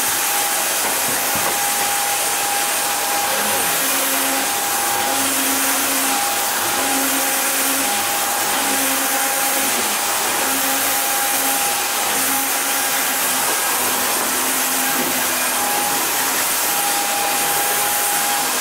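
Roidmi Neo cordless wet and dry vacuum running steadily while mopping a floor, with a high tone over its suction hiss. From a few seconds in, a lower tone comes and goes about every second and a half.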